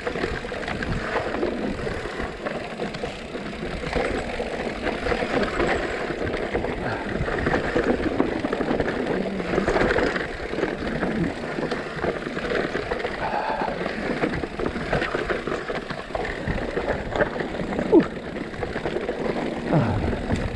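Mountain bike descending a rough dirt downhill trail: a steady rush of tyres over dirt and rocks with constant rattling and clattering from the bike. There is a sharp knock about eighteen seconds in.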